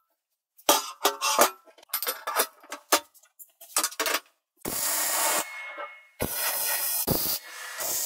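Workshop sounds: a run of sharp metal clinks and knocks, then two hissing bursts of about a second each, with more hiss near the end.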